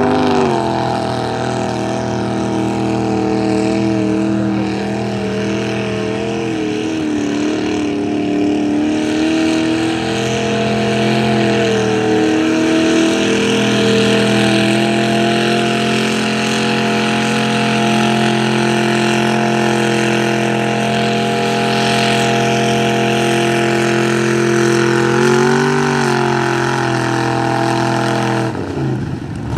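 Square-body Chevy truck's engine revving hard through a mud bog run: the revs climb right at the start, are held high with small wavers, dip briefly near the end, then drop away as the driver lets off.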